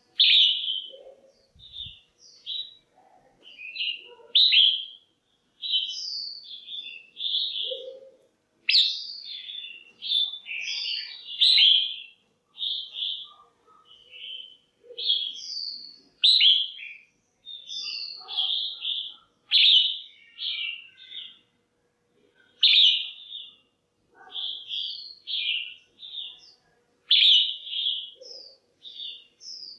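Female red-whiskered bulbul calling: quick clusters of short, bright chirping notes with brief pauses between them. This is the kind of call keepers play to rouse male birds or to pair them.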